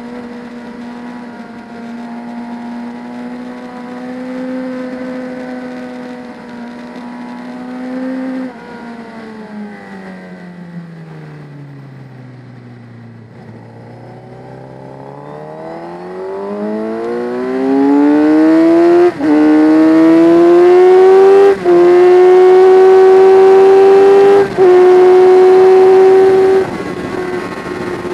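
Motorcycle engine heard from a camera mounted on the bike: it holds a steady note, then the pitch falls for several seconds as the throttle closes for a corner. It then climbs hard and much louder under full throttle, with three brief cuts as it shifts up through the gears, and the throttle shuts near the end.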